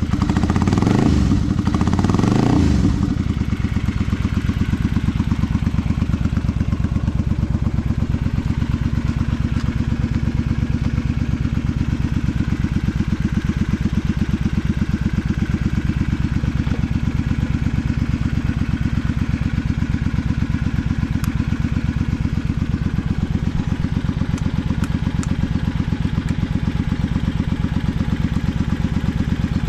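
Honda V-twin Magna 250 engine running through drag pipes: revved in a few quick blips in the first three seconds, then idling steadily with an even, loud exhaust beat. The seller states it has no abnormal engine noise.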